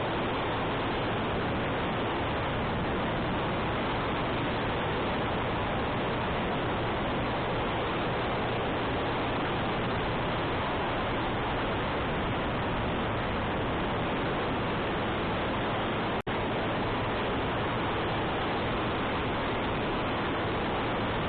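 Steady wind noise rushing over the microphone of a moving motorcycle, with the motorcycle's engine running low underneath. The sound cuts out for a split second about three-quarters of the way through.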